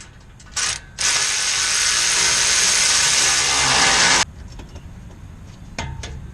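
A power tool runs in a short blip, then in one steady burst of about three seconds that stops abruptly, tightening the exhaust fittings on a Ram 1500 muffler delete install.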